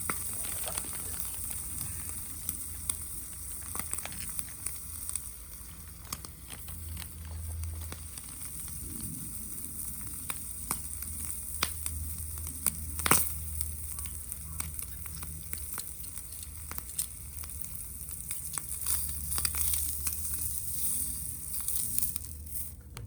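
Food frying in a pan over a wood gas stove: a steady high sizzle with frequent short pops and spits, the sharpest pop about 13 seconds in.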